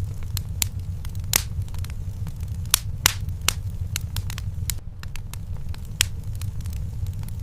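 Wood fire in a fireplace crackling, with sharp pops and snaps several times a second over a steady low rumble.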